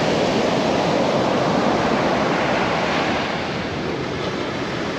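Pacific surf washing up the beach, a steady rush of breaking waves and running water, with some wind on the microphone.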